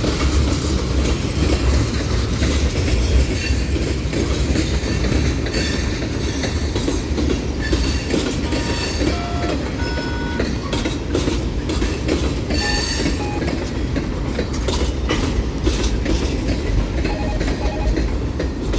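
Freight train cars rolling past at close range: a steady rumble with wheels clacking over the rail joints, and a few short, high wheel squeals around the middle.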